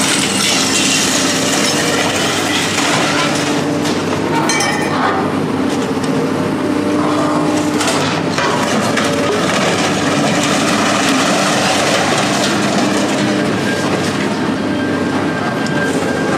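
A heavy machine's diesel engine running steadily while scrap metal is worked, with metal creaking and a couple of sharp metallic cracks about four and eight seconds in.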